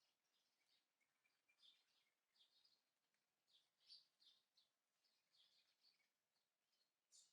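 Faint chirps and twitters from small birds, many short high calls in quick irregular succession.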